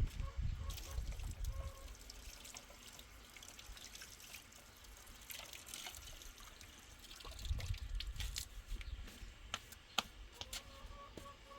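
Water dripping and trickling, with scattered small clicks and taps and a low rumble near the start and again past the middle.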